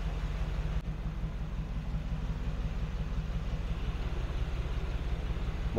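Steady low rumble of the Mercedes-AMG G-Class Brabus G800's 4.0-litre twin-turbo V8 idling, with a short click about a second in.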